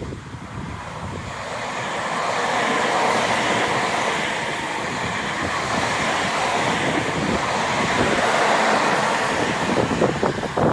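A Tobu Tojo Line train passing at speed: a loud rushing of wheels on rail and moving air that builds over the first two seconds and holds, with sharp rattling clacks near the end.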